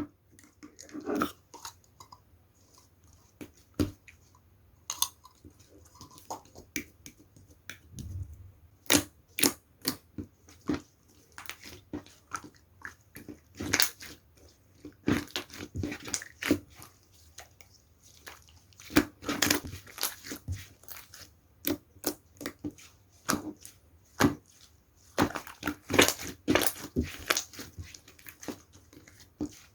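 Slime being worked by hand, making irregular sticky clicks and pops in clusters, busier in the second half.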